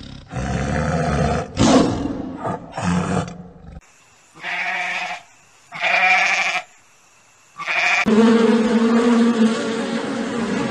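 A run of farm-animal calls: a rough, noisy call lasting about four seconds, then three short bleats about a second apart, then one long steady call lasting about three seconds.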